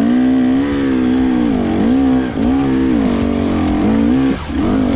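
Enduro motorcycle engine revved hard in repeated surges, its pitch rising and falling about once a second, with a brief drop in revs about four seconds in.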